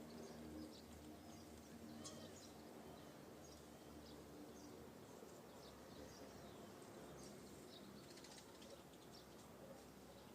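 Faint, scattered short chirps of small songbirds over quiet outdoor background, with a low steady hum underneath.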